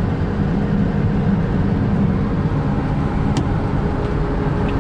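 Volkswagen Transporter T5 van driving off, with steady engine and road rumble.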